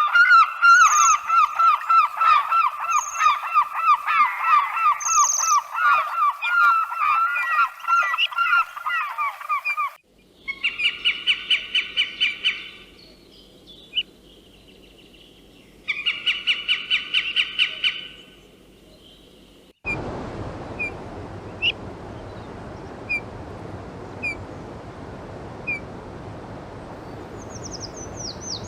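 Bird calls in three separate takes: first a dense chorus of many overlapping calls from a flock for about ten seconds, then two short bouts of fast repeated calls with a pause between, then a steady background hiss with a few brief chirps.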